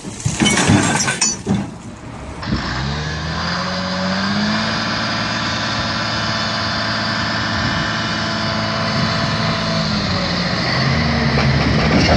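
A vehicle's engine speeds up over about two seconds, runs at a steady pitch, then slows near the end. Before it, for the first couple of seconds, there is irregular knocking and rumbling.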